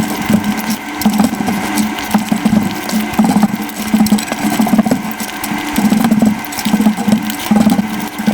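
Close-miked eating sounds sped up five times: rapid, even chewing and mouth sounds with sharp clicks, which come out as a fast mechanical-sounding rhythm.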